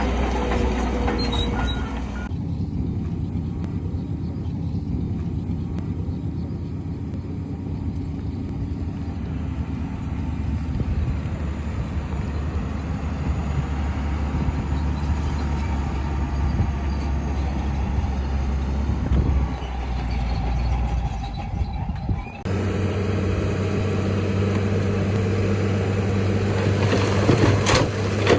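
Diesel engines of heavy earthmoving machines, a Shantui bulldozer and dump trucks, running steadily under load. The sound changes abruptly about two seconds in and again about twenty seconds later, and a few sharp knocks come near the end.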